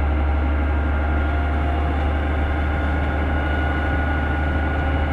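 Heavy earthmoving machine's diesel engine running steadily, with a faint steady whine over it from about two seconds in.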